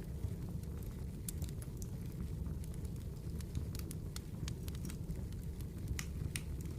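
Campfire burning: a steady low rumble of flames with irregular sharp crackles and pops from the burning wood, a few each second.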